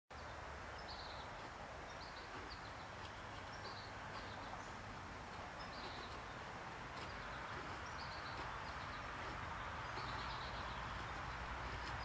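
Outdoor ambience of small birds giving short high chirps about once a second, over a steady background noise.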